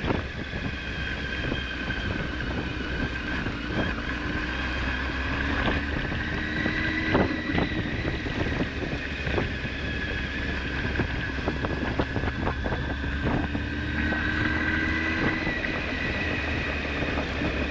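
Honda Hornet 900's inline-four engine running under way, its pitch rising gently twice and settling again, with wind noise on the microphone and a few sharp ticks.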